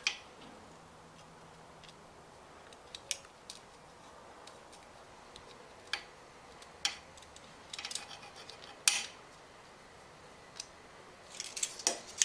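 Faint, scattered small metallic clicks and clinks, in a cluster near the end: a set of welding tip cleaners being handled and worked through a small-engine carburetor jet to clear it.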